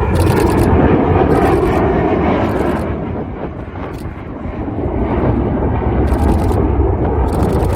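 Military jet aircraft passing on landing approach, a loud engine rumble that eases off about halfway through and swells again. Short bursts of high-pitched clicking recur about once a second over it.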